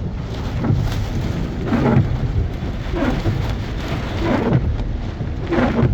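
Thunderstorm: heavy rain pouring steadily, with a low rumbling underneath.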